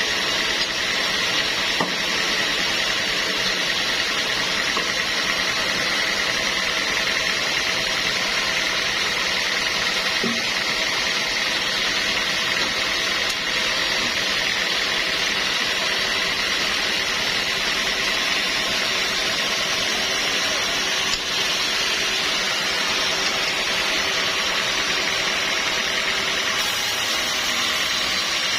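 Sawmill machinery running steadily: a continuous mechanical noise with a faint high whine held at one pitch.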